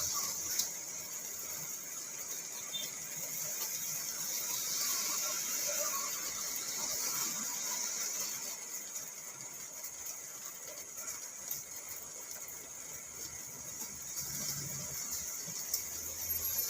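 Rain falling on a car, heard from inside the cabin: a steady high hiss scattered with many small drop ticks.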